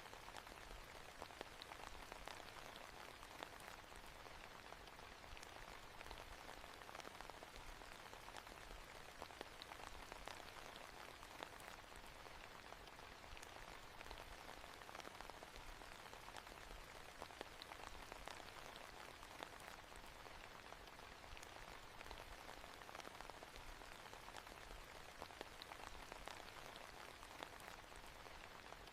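Steady, faint rain falling on a surface, with many small scattered drop ticks.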